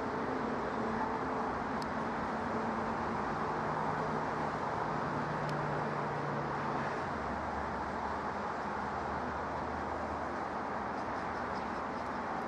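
Jet airliner engine noise: a steady rush, level throughout, with faint low hums underneath that shift pitch partway through.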